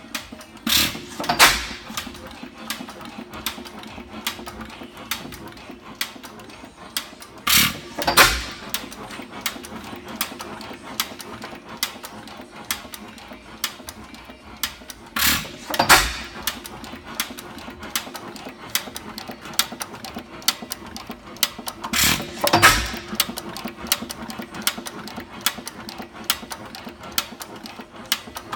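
4 hp Fairbanks-Morse Type H hit-and-miss engine running, firing two beats about every seven seconds and coasting between firings with a steady mechanical clatter.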